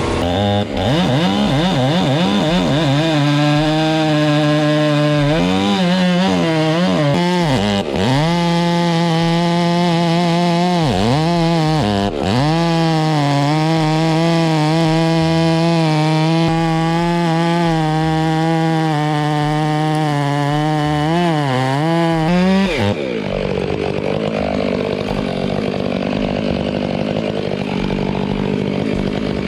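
Chainsaw cutting into a tree trunk, its motor pitch dipping sharply several times as the chain bogs down in the wood. After about twenty-three seconds the tone steadies and the level drops a little.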